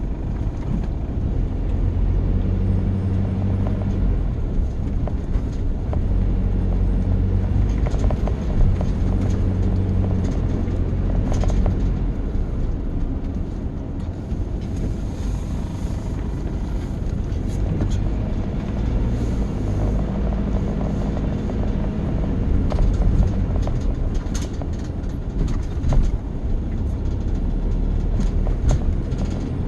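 Motor vehicle driving, heard from inside: a steady low engine and road rumble, with a humming engine tone that rises in and fades out several times.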